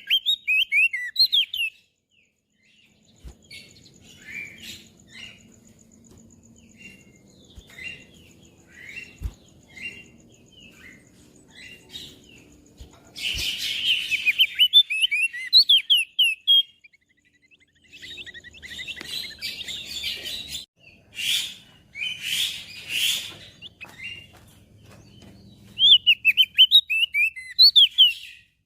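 Crested white-eye (opior jambul) singing: quick runs of high, sweeping whistled notes. Between the runs come scattered single chirps and a few harsher, scratchier calls.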